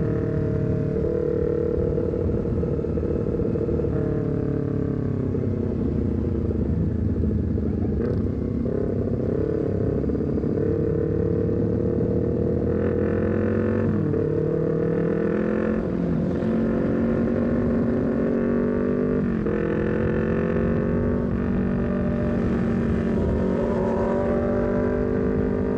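Honda CBR250RR engine running through a full-system R9 header and a short Leovince GP Corsa carbon silencer, ridden under load. The engine note climbs and falls, with several sudden drops in pitch where it changes gear.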